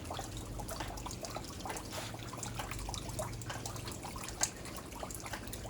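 Water dripping and trickling: many small irregular ticks over a low steady hum, with one sharper tick a little over four seconds in.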